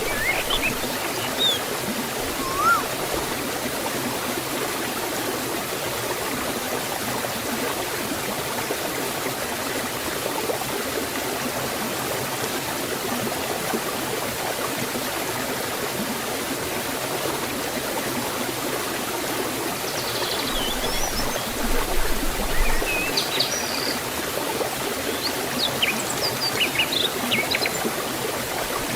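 A forest waterfall and stream rushing steadily. Birds chirp briefly now and then, with a short rising note early and bursts of high chirps about two-thirds through and again near the end.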